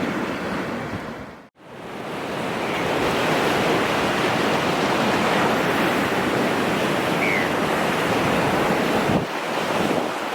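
Ocean surf washing and breaking, a steady dense rush with wind on the microphone. The sound cuts out briefly about one and a half seconds in, as at an edit, then comes back.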